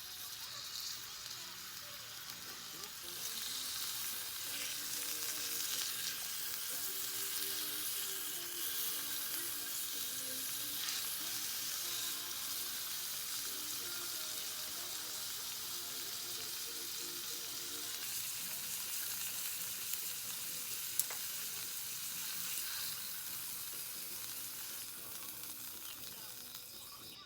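Food frying and sizzling steadily in a hot pan, swelling a few seconds in and easing off near the end, with one sharp click about 21 seconds in.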